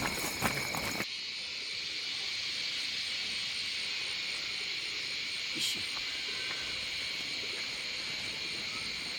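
Steady high chorus of forest insects, with a faster pulsing call above it. A few sharp knocks in the first second.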